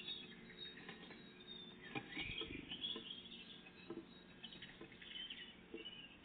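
Small songbirds chirping and singing, with short whistled notes and twitters, and a few soft taps scattered among them.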